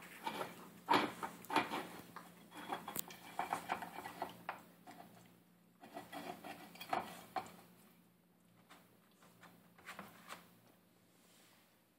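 Puppy eating dry food from its bowl: irregular crunching and clinks of kibble against the bowl, busiest in the first five seconds and again a little past the middle, with sparser clicks near the end.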